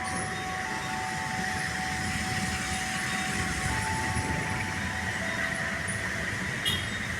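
Long-distance passenger train running on the rails: a steady rumble with thin high tones held over it and a few clicks near the end.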